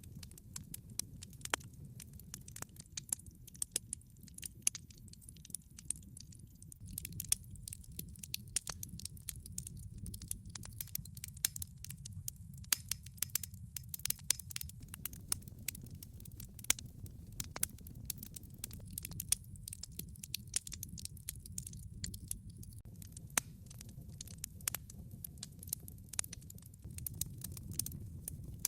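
Log fire crackling in a fireplace: many sharp, irregular pops and snaps over a low, steady rumble.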